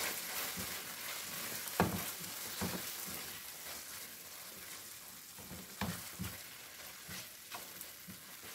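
Boneless chicken karahi sizzling in butter in a nonstick frying pan while it is stirred with a wooden spatula, the spatula knocking and scraping against the pan a few times.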